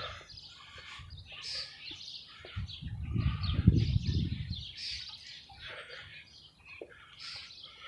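Birds chirping repeatedly, with a low rumble that swells and fades in the middle.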